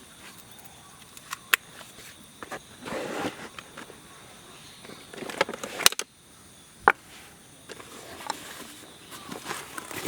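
Rustling and handling noises with a few sharp snaps or clicks, the loudest about six and seven seconds in.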